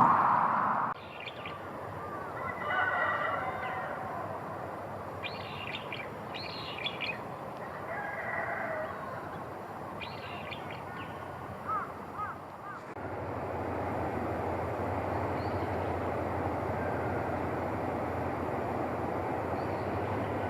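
Birds calling: two longer calls about 2 and 8 seconds in, with short high calls between them. About halfway through, a steady rushing noise takes over.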